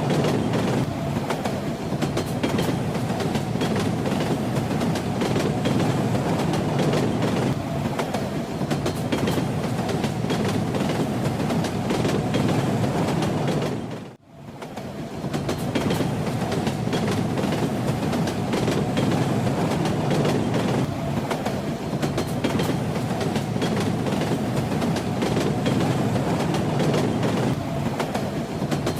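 Train running on rails: a steady rumble with the clatter of the wheels over the rail joints. About halfway through, the sound fades almost to nothing for a moment and swells back.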